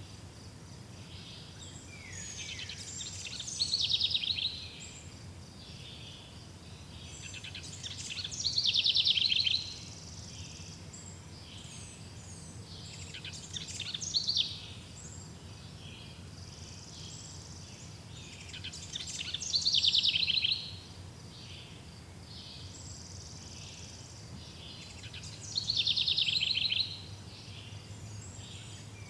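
A songbird singing the same short, fast trilling phrase about every five to six seconds, five times in all, over a steady background of faint high chirping and a low hum.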